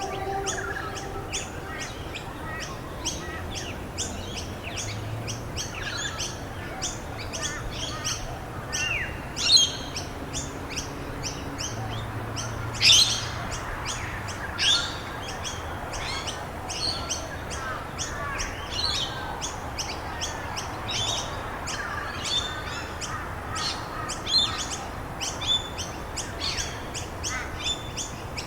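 Wild songbirds chirping and calling: many short, high, overlapping chirps and quick whistled sweeps, with a couple of louder calls about nine and thirteen seconds in, over a steady background hiss.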